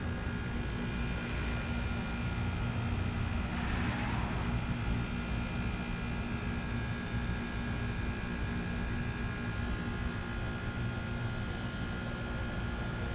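2012 Trane XR13 2-ton heat pump outdoor unit running, a steady compressor hum with fixed tones over a low rumble. A brief rush of noise comes about four seconds in.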